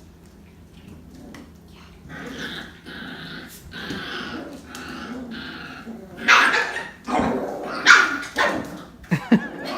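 Aussiedoodle puppies growling as they play-fight: a run of drawn-out growls from about two seconds in, then several loud, high barks in the last few seconds.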